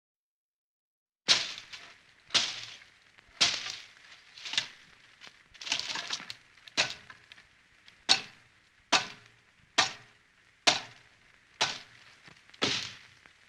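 A series of sharp cracks from a horror sound effect, about a dozen at roughly one a second, each fading quickly. They start after a second or so of silence.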